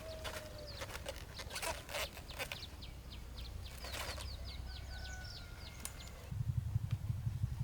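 Chickens clucking and peeping in a quick run of short, falling chirps, with scattered clicks and knocks. A low pulsing rumble starts about six seconds in.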